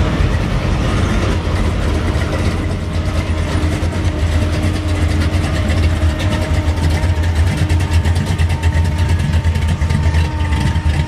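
Car engine idling loudly and steadily, with a deep rumble.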